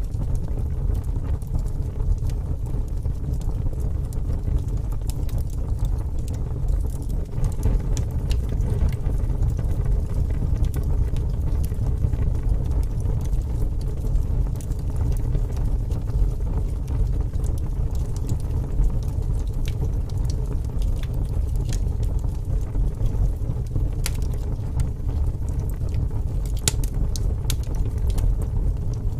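Wood fire burning in a fireplace: a steady low roar with scattered crackles and pops, the sharpest crackles bunched together near the end.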